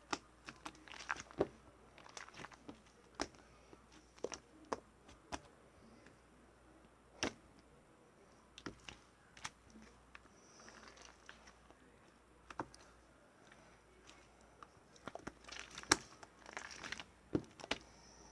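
Marbling slime being squeezed and worked by hand, giving irregular sticky pops and clicks, with clusters about a second in and again near the end.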